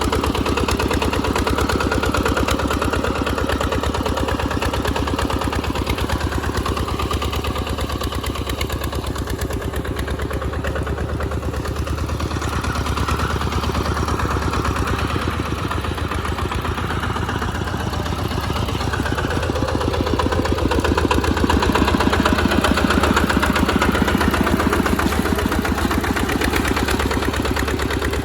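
Tractor engine running steadily under load while plowing through mud, with a fast, even chug; it grows somewhat louder about two-thirds of the way through.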